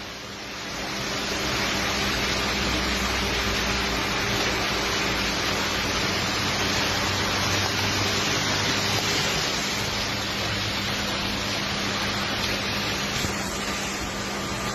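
Heavy rain pouring down in a steady rush, with a faint low steady hum underneath.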